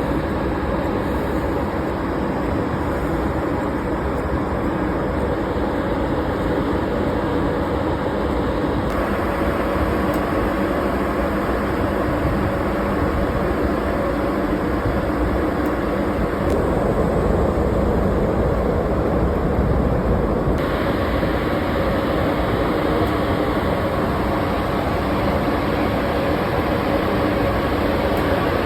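GB Railfreight Class 92 electric locomotive 92028 running with its train: a steady rumble with a faint hum, unchanging throughout.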